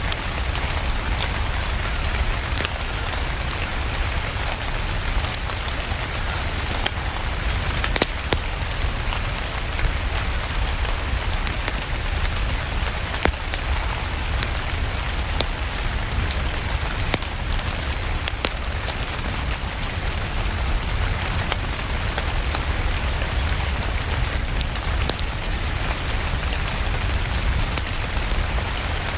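Steady rain with a low rumble underneath, mixed with scattered sharp crackles and pops of a wood fire in a fireplace.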